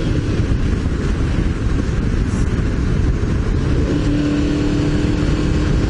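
Heavy wind rush over a helmet-mounted microphone while riding a Honda VFR750 motorcycle at speed. Under it the bike's V4 engine holds a steady drone, which comes through more clearly from about four seconds in.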